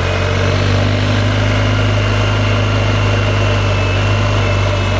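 Engine idling steadily: an even low hum with a thin high whine over it.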